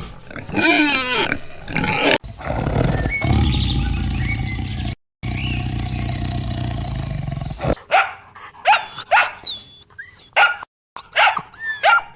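Spliced animal clips with sudden cuts: a dog growling and barking, then a quick run of short, high-pitched, arching whimpering yelps, about two a second.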